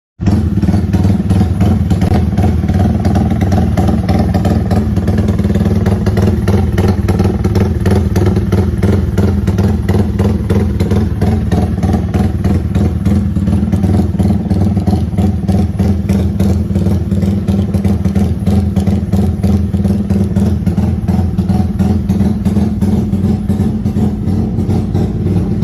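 Yamaha Y15ZR's single-cylinder four-stroke engine running steadily at a loud, rapid, even pulse, tuned with 'timing kuda' ignition timing. It starts and stops abruptly.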